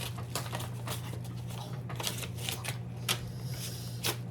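Paper rustling and crackling as an envelope is handled and opened, in quick irregular crinkles, with two sharper crackles about three and four seconds in, over a low steady hum.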